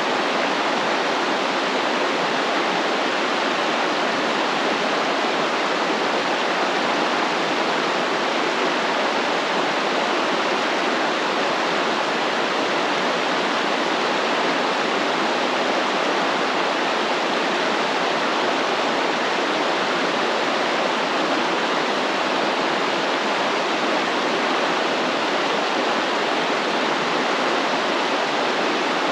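Stream water flowing and rushing in a steady, unbroken wash.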